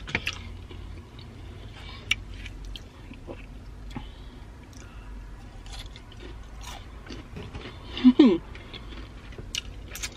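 Close-up mouth sounds of eating fried chicken wings: chewing, lip smacks and finger licking, as small scattered clicks. About eight seconds in, a short hum of the voice falling in pitch stands out as the loudest sound.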